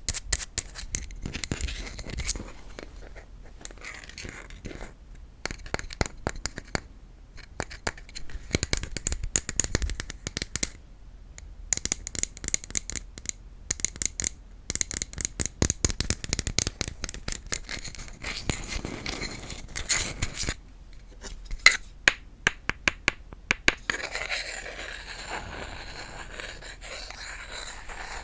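Tapping and scratching on wooden objects in quick flurries of sharp taps with short pauses. About four seconds before the end it changes to a steadier scratching.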